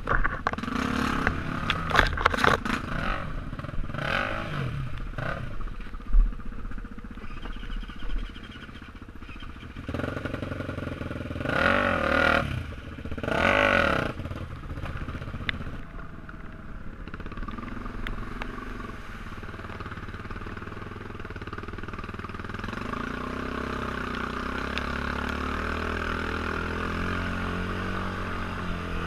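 Motorcycle engine running, revved up twice in quick succession around the middle, with a few sharp knocks and clatter in the first seconds, then settling into steady running.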